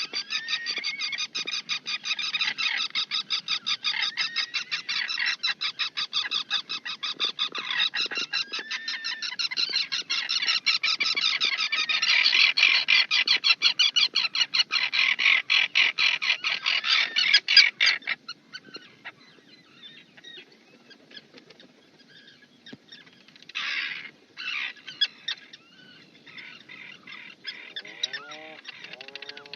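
Birds calling: a fast, even run of chattering notes, several a second, that stops abruptly about 18 seconds in, followed by scattered short calls and, near the end, a few lower calls that rise and fall in pitch.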